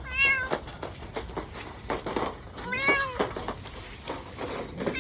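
Cat meowing twice, about two and a half seconds apart, each call rising and then falling in pitch, with scattered knocks and rattles between the calls.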